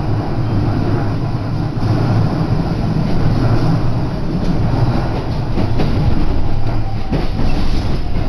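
Electric commuter train running, heard from inside the carriage: a steady low rumble of wheels on rail with a few clicks. Near the end a faint whine falls slowly in pitch as the train slows into the station.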